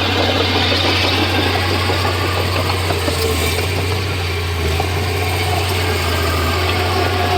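Komatsu D31P crawler bulldozer's diesel engine running steadily with a low hum.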